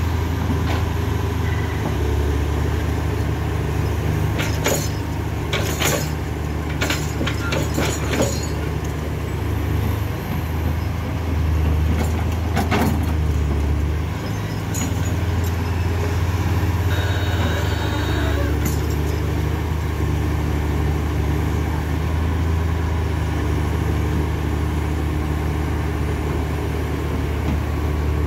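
Heavy truck engine running with a steady low drone, with several sharp knocks or clanks about four to eight seconds in.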